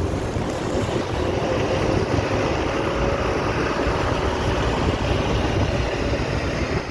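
A boat's engine running steadily, a constant low rumble with a faint steady hum, mixed with wind and water noise.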